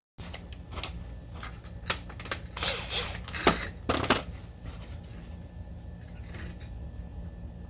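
Scattered light metal clinks and clanks, like hand tools and small metal parts being handled, over a steady low hum; the clanks bunch together and are loudest about three to four seconds in, then thin out.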